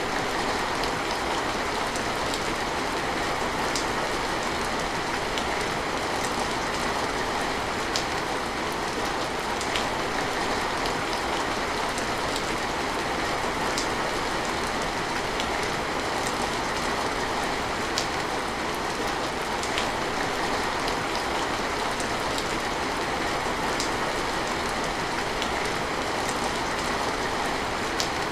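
Steady rain falling, an even hiss with scattered small drops ticking through it.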